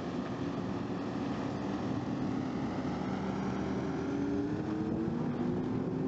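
A heavy engine running steadily, its pitch rising slowly.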